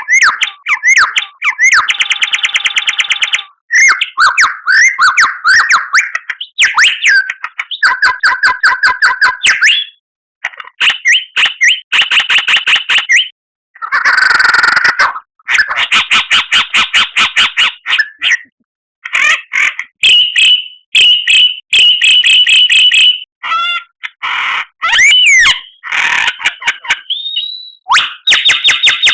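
White-rumped shama (murai batu) song: loud, varied phrases of rapid repeated chattering notes, trills and whistled glides, broken by short pauses, a full song with many fill-in phrases.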